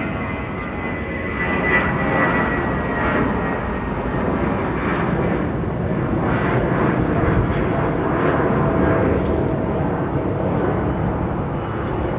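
Airliner's jet engines passing close, a loud steady rush with a high whine that fades in the first few seconds.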